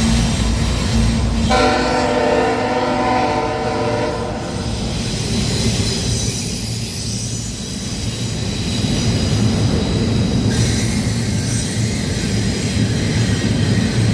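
Freight train passing close by: the diesel locomotive's horn sounds one chord for about two and a half seconds near the start, then the low rumble of the locomotives and cars on the rails continues, with a thin high wheel squeal over it.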